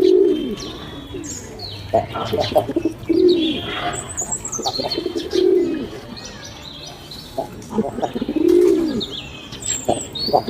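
Pigeons cooing, with four or five low rising-and-falling coos a couple of seconds apart. Wing flaps and the higher chirps of smaller birds come in between.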